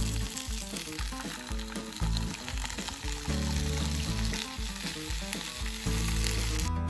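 Squash blossoms and onion frying in hot oil in a skillet: a steady sizzle that cuts off abruptly just before the end.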